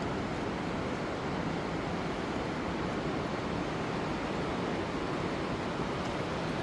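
Whitewater of the Niagara River's Class III rapids rushing in a steady, unbroken noise.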